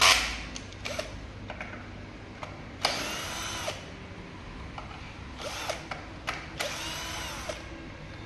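Power drill run in three short bursts, spinning up and winding down each time, as when driving screws or bolts; a sharp click comes at the start.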